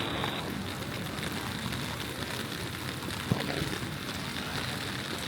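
Steady rain falling, an even hiss, with one sharp tap a little over three seconds in.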